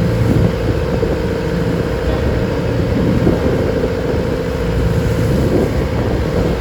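Engine of a wooden passenger boat running steadily under way, a constant drone with a steady hum over a low rumble.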